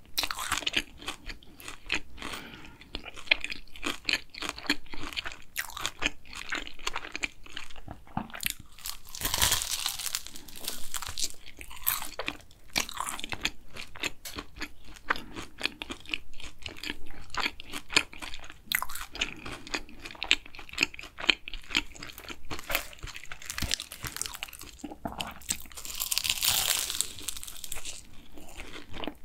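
Close-miked chewing and crunching of a hazelnut Nutella cronut, its flaky laminated pastry and chopped hazelnut topping crackling between the teeth. There is a louder burst of crunching about nine seconds in and another near the end.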